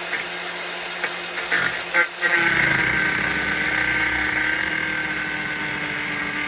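Power tool with a cutting disc spinning with a steady whine; the disc is wobbling ("wibbly wobbly"). After a few knocks about two seconds in, the disc bites into the work and cuts, the sound growing louder and rougher and the pitch sinking slightly under the load.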